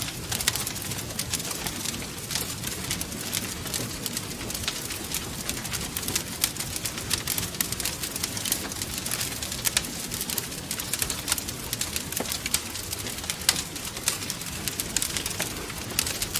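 Wood fire crackling, with many sharp pops and snaps over a low, steady rumble of burning.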